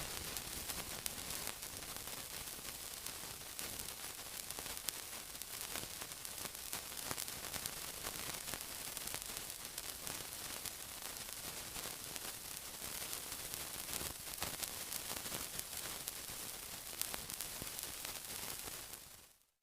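Steady sizzling, a dense hiss full of fine crackles, fading out just before the end.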